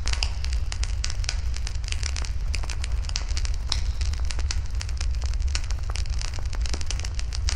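Wood fire burning, crackling steadily with many sharp, irregular pops over a steady low rumble.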